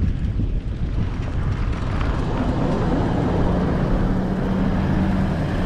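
Wind rushing over the microphone of a moving bicycle, with a steady low hum starting about halfway through.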